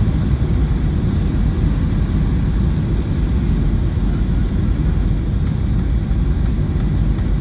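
Steady low rumble of a Boeing 737-700 in flight, heard from inside the cabin: engine drone and airflow over the fuselage, with no change in level.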